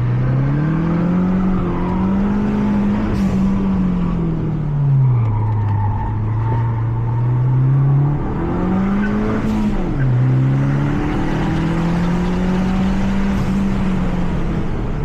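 Mazda 3 MPS's 2.3-litre turbocharged four-cylinder engine heard onboard while being driven hard on a track. Revs climb, hold, fall off and climb again, with sudden drops about two-thirds of the way through and again near the end as it shifts up.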